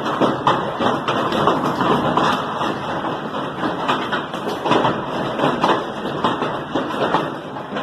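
Hailstones striking hard surfaces: a dense, irregular clatter of sharp knocks over a steady rush of falling ice and rain.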